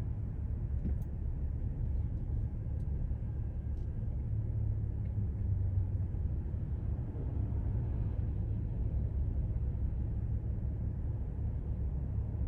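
Steady low rumble of a car driving at road speed, with road and engine noise and no sudden events.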